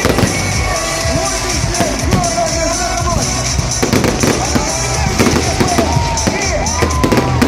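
Fireworks bursting and crackling in quick succession over loud music with a steady beat and a singing voice.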